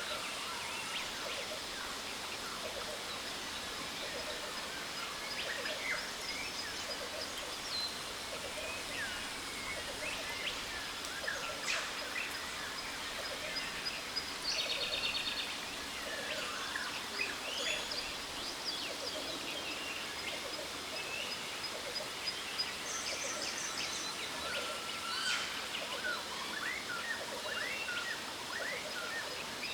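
Jungle waterfall ambience: the steady rush of falling water, with many birds chirping and whistling throughout and a few quick trills.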